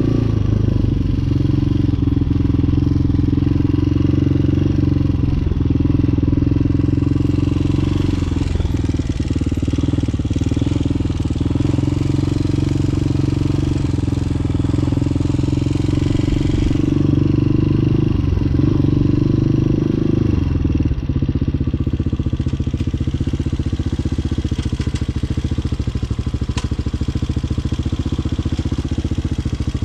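Hawk 250cc dual-sport motorcycle engine running steadily, with the engine note dropping about two-thirds of the way through.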